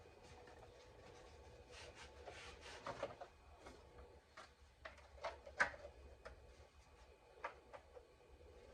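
Scattered light clicks, knocks and rubbing of a car part being handled and fitted into place, with the sharpest click about five and a half seconds in.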